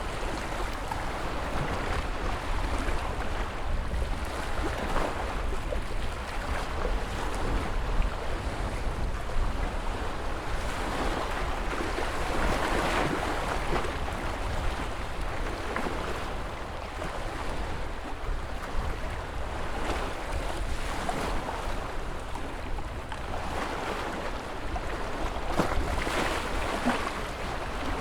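Ocean surf: waves breaking and washing in continuously, the rush swelling and easing every few seconds over a steady low rumble.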